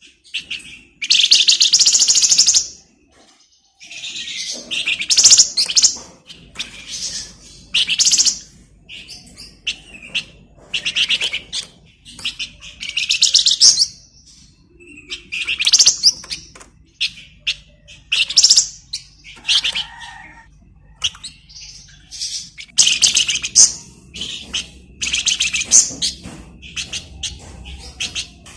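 A flamboyan songbird singing energetically in bursts: rapid, high, rattling trills and chatters, each about a second long, repeated with short pauses.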